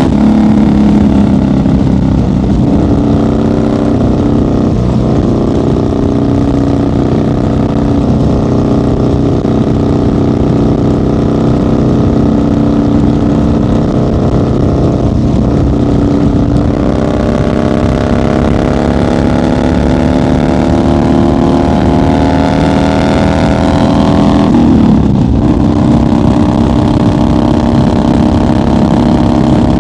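1990 Harley-Davidson FXR's 1340 Evolution V-twin running at highway cruising speed, a steady engine note. The pitch climbs slowly through the middle, then drops sharply and recovers about 25 seconds in before holding steady.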